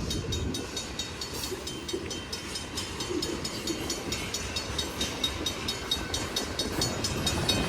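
Train passing slowly at a level crossing: a steady low rumble with a rapid regular clicking, about four clicks a second.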